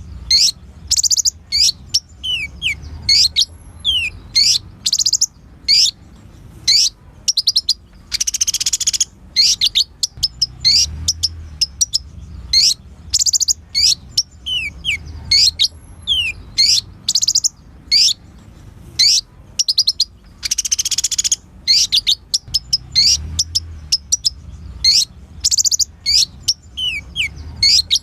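A kolibri ninja sunbird singing energetically: fast runs of high, sharp chips and down-slurred notes, broken twice by a longer dense buzzy trill.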